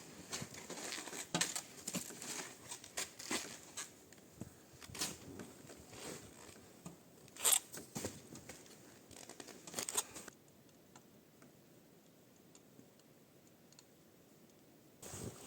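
Irregular rustling, crinkling and sharp clicks of gear being handled at close range, stopping about ten seconds in and leaving near quiet with a few faint ticks.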